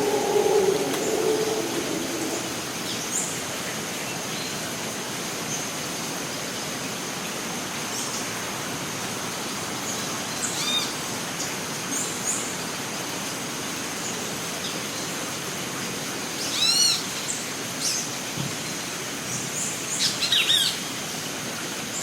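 Costa Rican rainforest ambience: a steady hiss with a continuous high tone over it, and scattered bird calls. The calls include a quick run of arched notes about three-quarters of the way through and a cluster of chirps near the end. A lower-pitched sound is loudest in the first two seconds.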